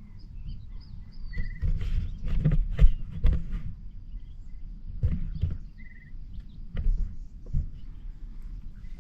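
Irregular knocks and taps over a low rumble, with a bird chirping short trills a few times.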